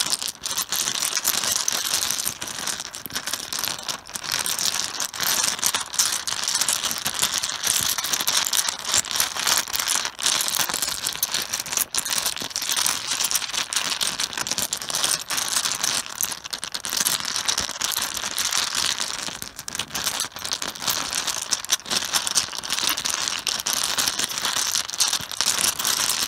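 Mahjong tiles clattering continuously on a cloth-covered table: a dense run of hard clicks as many tiles are pushed and stirred together, as in shuffling.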